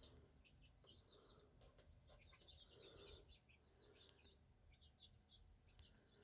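Near silence, with faint bird chirping: quick runs of short, high notes over a low, steady hum.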